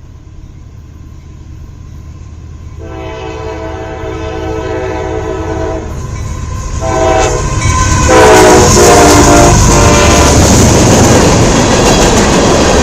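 CSX freight locomotive's horn blowing as the train comes up and passes: a long blast about three seconds in, a short one around seven seconds, and a loud blast near eight seconds as the locomotive arrives. It is followed by the loud rumble and clatter of the passing train.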